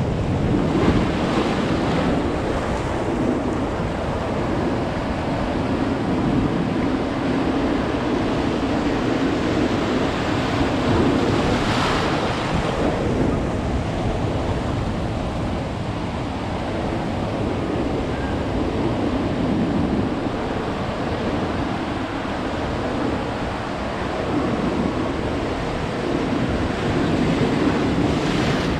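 Ocean surf: waves washing and breaking steadily on the shore, with one stronger break about twelve seconds in. Wind buffets the microphone.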